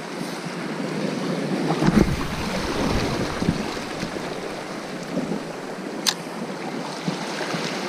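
Sea waves washing over a rocky shore, with wind buffeting the microphone in a gust about two seconds in, and a single sharp click about six seconds in.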